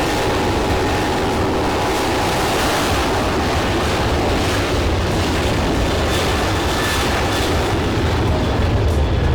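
Boeing 737-800's CFM56-7B jet engines running at high power: loud, steady jet noise with a deep rumble that grows slightly stronger near the end.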